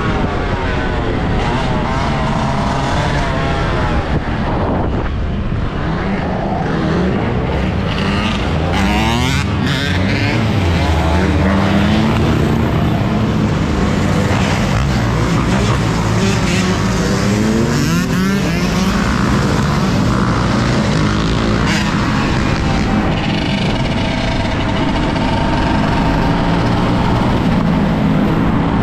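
Off-road motorcycle under way, its pitch sliding up and down with the throttle over a steady rush of noise.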